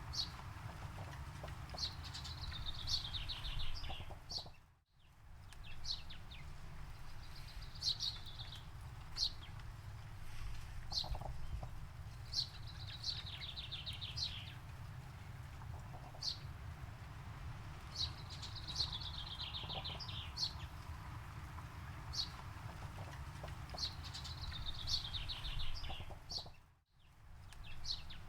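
A songbird singing, repeating a short falling trilled phrase every few seconds with sharp single chirps between, over a steady low rumble of background noise. The sound dips out briefly twice, about five seconds in and near the end.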